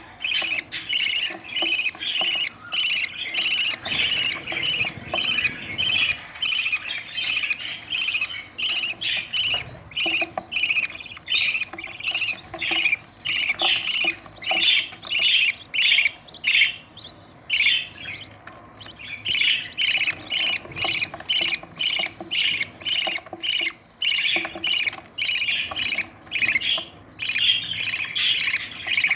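Budgerigar chicks giving repeated harsh, squawking begging calls, about two a second, with a couple of short pauses, as they are fed by their parents.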